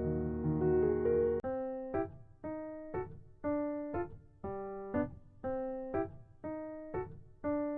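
Background piano music: held chords over a bass line, then about a second and a half in the bass drops out and chords are struck about twice a second, each fading.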